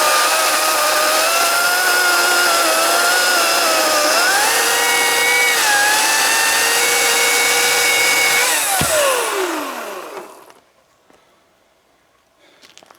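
Ryobi chainsaw cutting back a branch: a steady high whine that shifts up in pitch about four to five seconds in, then winds down smoothly and stops about ten seconds in. A brief low knock comes as it winds down.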